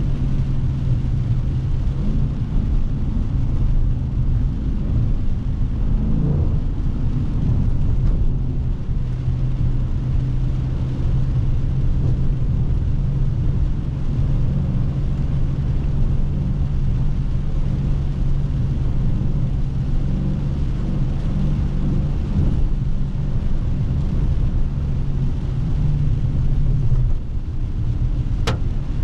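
A Dodge Scat Pack's 392 HEMI V8 runs at a steady cruise, its exhaust holding a low, even drone over the hiss of tyres on a wet road. Near the end the drone eases off, and a single sharp click follows.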